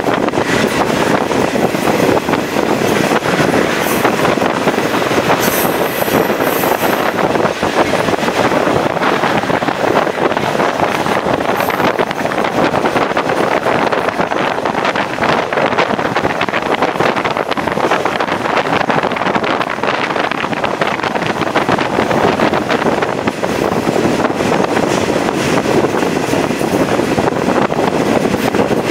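Chepe passenger train running along the track: a steady rumble and rattle of the moving cars, with wind buffeting the microphone.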